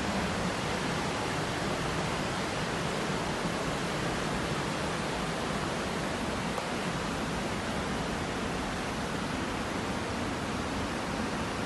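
Heavy rain falling, a steady even rushing hiss that never lets up.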